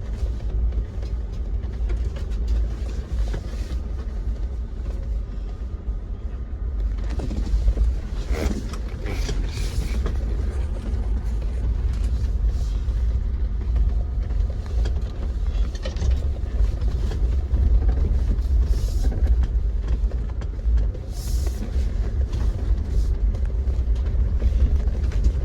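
Jeep driving slowly over a bumpy off-road trail: a steady low engine and road rumble with scattered knocks and creaks from the body and suspension.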